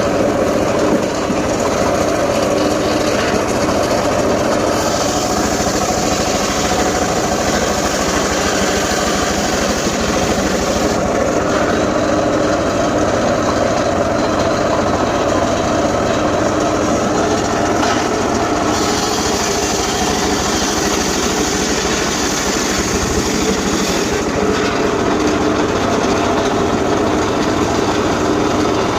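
Small petrol engine of a wood saw running steadily for the whole stretch, with a hissing cutting noise that comes and goes every few seconds as the blade works through gmelina wood.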